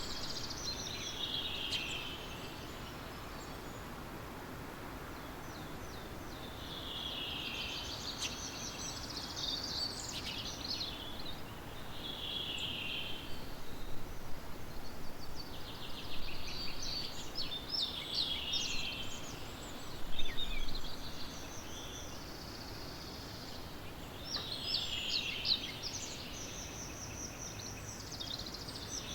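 Songbirds singing in a morning chorus, with short, similar song phrases repeated every few seconds over a steady background hiss.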